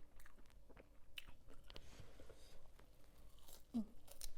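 Close-up crunching and chewing of crunchy squid in a spicy pounded salad, with scattered crisp crackles as the rubbery squid is bitten and chewed.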